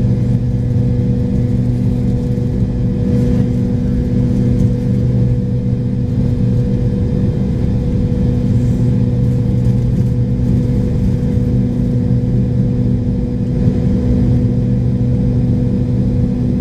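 Steady engine drone heard inside the cabin of a McDonnell Douglas MD-83 from its rear-mounted Pratt & Whitney JT8D turbofans: a loud, even hum with a few constant low tones that doesn't change.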